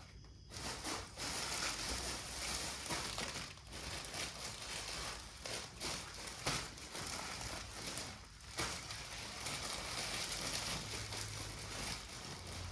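Plastic packaging crinkling and rustling as it is handled and unwrapped, with brief lulls twice.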